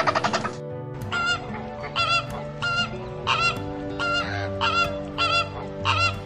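Flamingos honking, a run of short goose-like nasal calls coming about twice a second, often in pairs. At the very start a brief, loud, harsh rattling sound cuts off.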